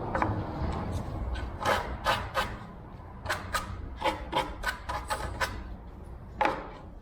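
Short rasping strokes of a hand tool on wood, about fifteen in an irregular rhythm, as a wooden fuselage support is trimmed to fit.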